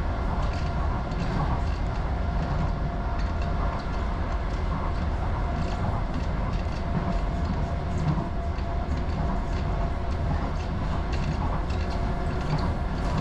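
Docklands Light Railway train running between stations, heard from inside the rear car: a steady rumble of wheels on rail with faint clicks and a faint steady whine.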